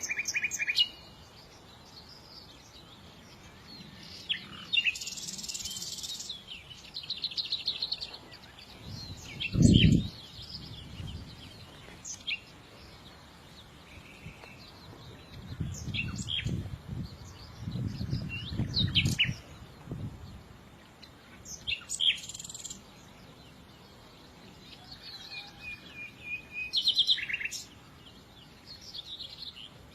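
Small birds chirping and trilling on and off, short high calls scattered through. About ten seconds in a loud low thump, and later a few seconds of low rumbling.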